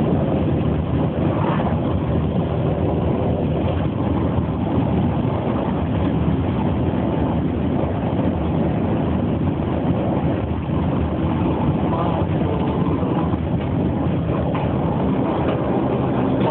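Scania diesel engine running steadily, with a constant low drone and road noise.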